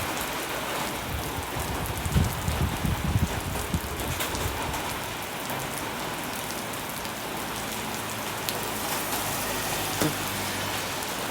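Steady rain falling, drops pattering on surfaces, with a few low thumps about two to three seconds in.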